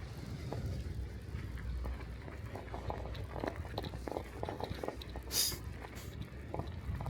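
Bicycle riding over snow: the tyres crunch and crackle in many small clicks over a low steady rumble, with one sharp click about five seconds in.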